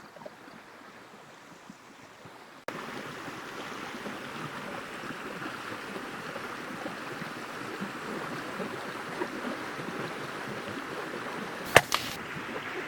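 A stream running steadily. The water is quieter at first and louder after an abrupt cut about two and a half seconds in, and a single sharp snap sounds near the end.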